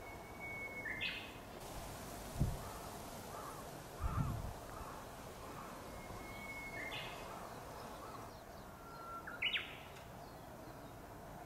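Japanese bush warbler (uguisu) singing its hoo-hokekyo song three times: each a long held whistle ending in a quick rising flourish, the third starting lower. Two low thumps on the microphone come a couple of seconds in and at about four seconds.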